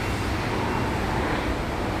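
A car running steadily: a constant low engine hum under a hiss of road noise.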